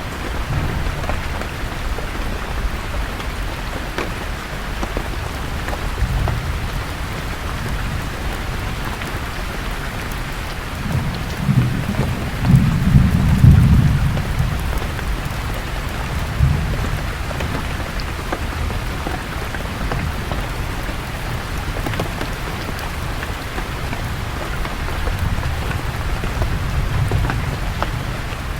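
Steady rain falling on leaves, with scattered drop ticks. About eleven seconds in, a low rumble of thunder swells to a peak over about three seconds, then dies away with a smaller rumble shortly after.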